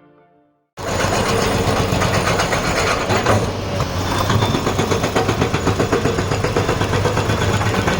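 Honda XR190 motorcycle engine running steadily with a rapid, even beat, cutting in abruptly just under a second in.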